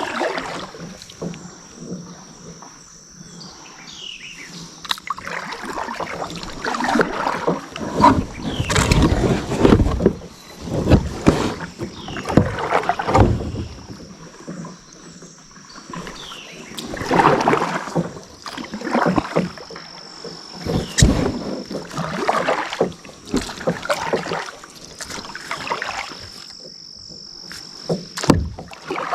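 Kayak paddle strokes splashing and dripping in the water, coming in uneven clusters of strokes. A thin, steady high-pitched tone runs in the background.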